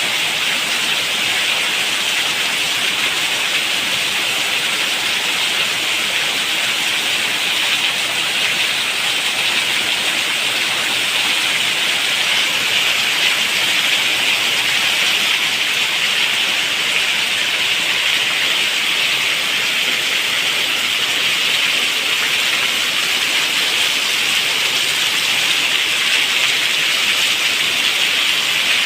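Steady heavy rain, an even hiss that does not let up.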